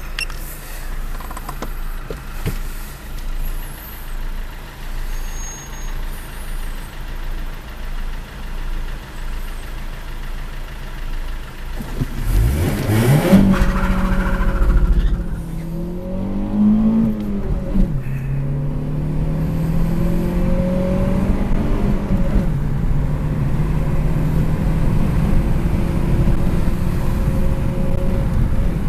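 Chip-tuned Lada Priora's four-cylinder engine idling, then about twelve seconds in revving hard for a full-throttle launch and pulling up through the gears. The pitch climbs steeply and drops sharply at three gear changes, heard from inside the cabin.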